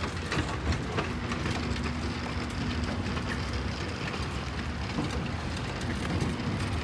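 Steady rumbling noise with a faint low hum that comes and goes, and a few light clicks.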